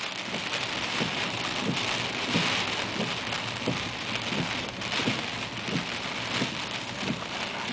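Heavy rain on a moving car, a steady hiss, with faint low knocks recurring about every two-thirds of a second.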